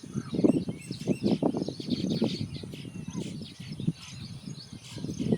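Many small birds chirping at once, as in a baya weaver nesting colony, with quick, overlapping high chirps. Beneath them runs a louder, uneven low rumble.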